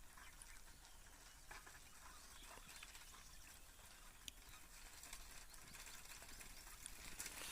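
Near silence: faint background hiss with a few scattered faint ticks.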